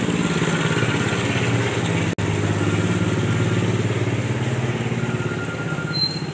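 A small engine running steadily at an even idle-like speed, with a fast, even firing beat. It cuts out for an instant about two seconds in.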